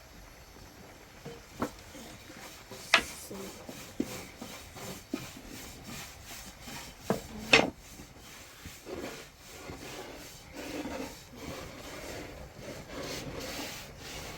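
Several sharp knocks, two of them loud, followed by a long stretch of repeated scraping or rubbing.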